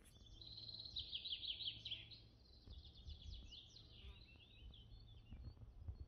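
A songbird singing: a fast run of repeated high, falling notes about a second in, then two more runs and a few scattered chirps.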